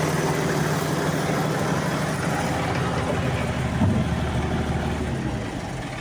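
Case 2670 tractor's diesel engine running steadily, then dying away over the last second or two, as a fault has just shown itself.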